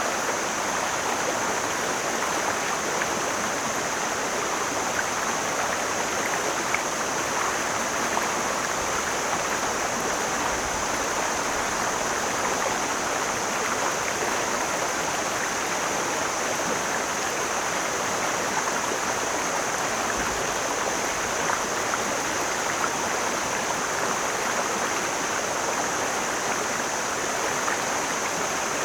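Mountain stream flowing steadily, an even wash of running water with no breaks.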